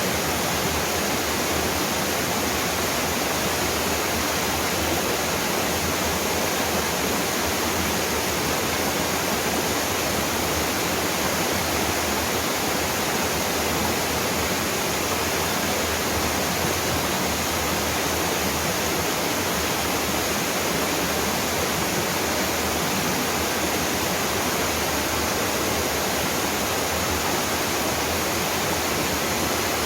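Small mountain waterfall: water falling and splashing onto rock in a steady, unbroken rush.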